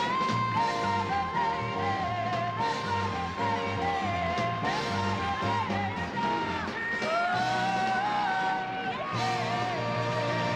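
Live concert music with singing over orchestral accompaniment, a long high note held through roughly the first half, then shorter wavering notes.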